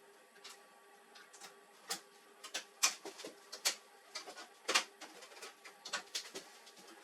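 Irregular clicks and knocks of laser printer parts being handled and fitted, loudest and most frequent in the middle, over a faint steady hum.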